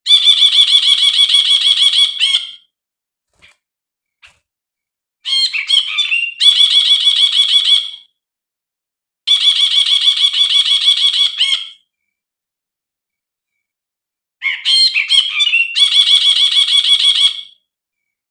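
Brinji (a bulbul) singing: four loud bouts of a fast, chattering trill, each two to three seconds long. The second and fourth bouts open with a few quick, sliding notes.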